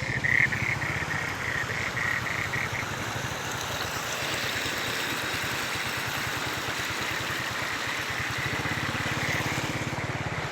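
An engine running steadily, with a fast, even low pulsing.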